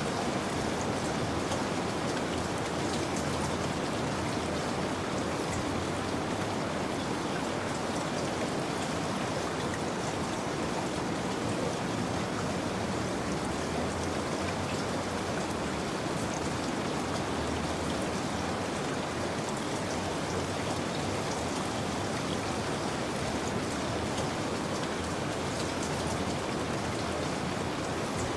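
Steady rain falling, with fine scattered drop patters over an even hiss.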